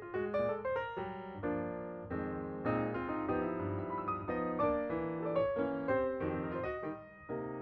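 Background piano music: a run of struck notes and chords, with a brief dip in loudness near the end.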